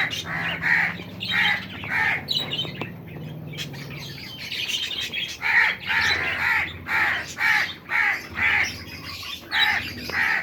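Small pet parrots in an aviary giving harsh, repeated squawks, about one to two calls a second, with a short lull about a third of the way in.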